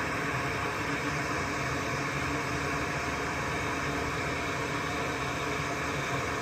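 Hot-air rework station blowing a steady hiss of hot air, turned up to 470 to heat the solder on a circuit board's MOSFET leads for desoldering.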